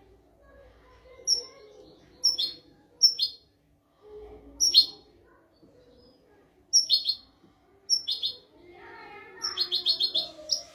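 European goldfinch singing: short, bright twittering phrases separated by brief pauses, ending with a rapid run of about five notes.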